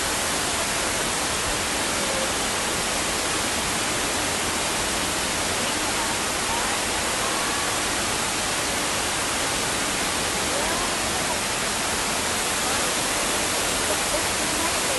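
Steady rush of a tall man-made indoor waterfall pouring into its pool, even and unbroken, with faint voices in the background.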